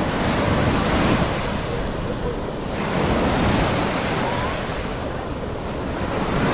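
Surf washing onto a sandy beach: a steady hiss of breaking waves that rises and eases, with wind buffeting the microphone.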